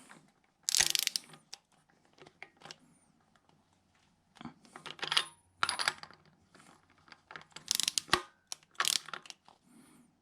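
Hand tools and metal fittings clinking, with ratchet clicks, as AN10 oil cooler takeoff fittings are tightened on the engine. The clinks come in short separate clusters with a quiet spell a couple of seconds in.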